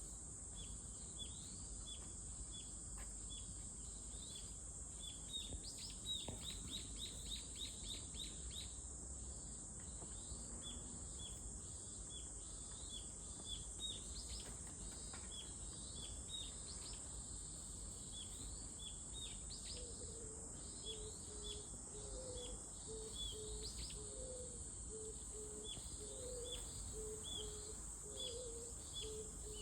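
Cicada buzzing in one steady, high, unbroken drone, with many small birds chirping quickly over it. About two-thirds of the way in, a low call begins, repeated in short notes.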